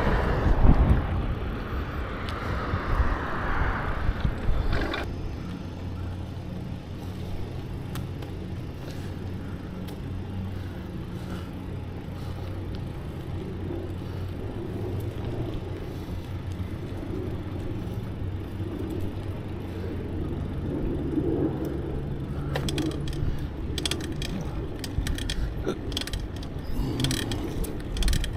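Bicycle riding sounds: wind rumble on the microphone in the first few seconds, a low steady hum through the middle, and clicking and rattling from the bike's mechanism in the last few seconds.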